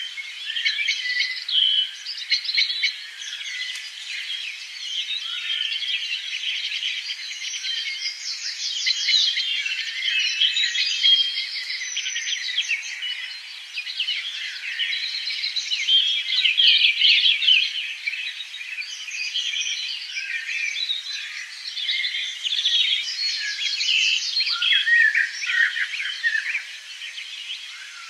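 Many small birds chirping and chattering at once: a dense, continuous chorus of overlapping high chirps and rapid trills.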